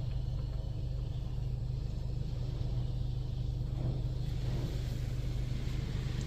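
Steady low hum heard from inside a car in a touchless automatic car wash, in a lull between spray passes with no water hitting the car.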